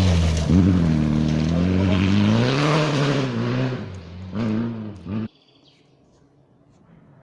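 Turbocharged rally car engine at full attack, its pitch rising and falling as the driver revs hard and shifts through the gears, then the sound cuts off abruptly about five seconds in.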